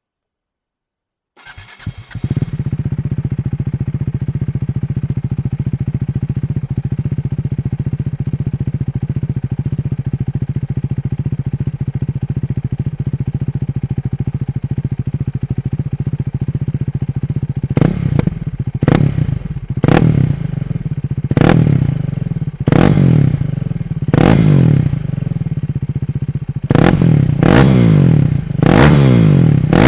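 KTM Duke 390's single-cylinder engine, breathing through an Akrapovic slip-on exhaust with a decat pipe, starts about a second and a half in and settles into a steady idle. From about halfway through it is revved in a series of short throttle blips that come faster toward the end.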